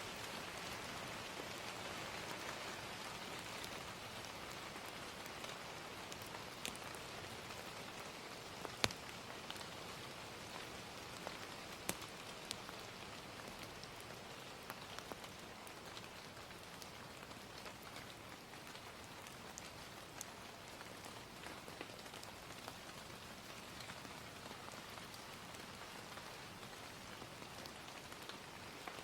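Steady gentle rain with a crackling fire: a constant hiss of rain, with scattered sharp pops and snaps from the fire, the loudest one about nine seconds in.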